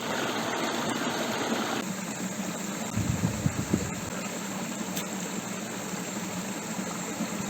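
Steady rush of a creek's flowing water, changing abruptly near 2 s, with a few low thumps a little past the middle.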